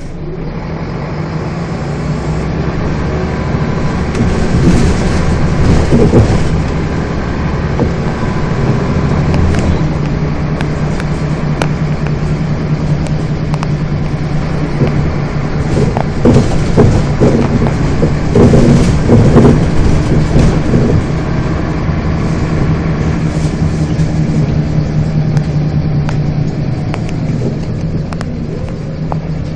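Scania bus engine running steadily while under way, heard from on board, with bouts of rattling and knocking about a few seconds in and again around the middle.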